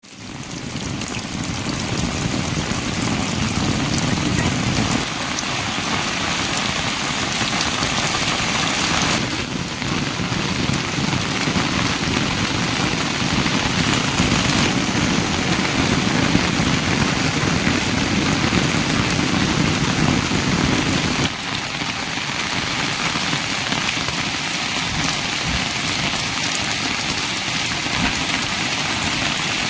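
Heavy rain pouring steadily, a dense hiss that changes character abruptly three times.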